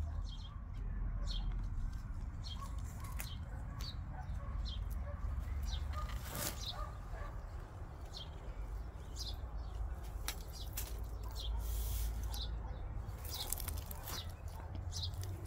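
Small birds chirping over and over in short, high, falling notes, over a steady low rumble.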